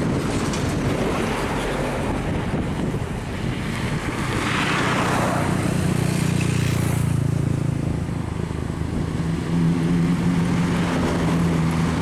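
Big truck engines running in slow, jammed traffic, with a swell of passing-vehicle noise about four seconds in and a louder steady engine hum from about nine seconds on. Wind buffets the microphone.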